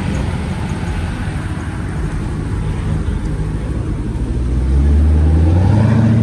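Low V8 exhaust rumble of a Jeep SRT8 rolling in at low revs, growing louder about five seconds in.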